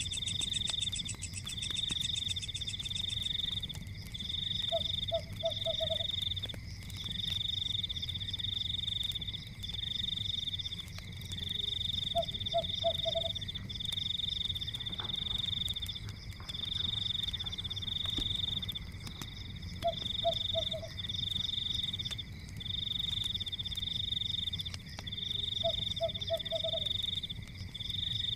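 Forest night chorus of frogs and insects: a high trill pulsing in bursts about a second long, one after another, over a steady thin high tone. About every seven seconds a short run of four or five quick, lower croaking notes comes in, over a steady low rumble.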